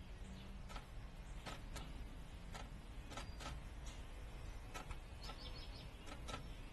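Backyard birds: about ten sharp, chip-like clicks at irregular intervals, with a short quick run of high notes about five seconds in, over a steady low rumble.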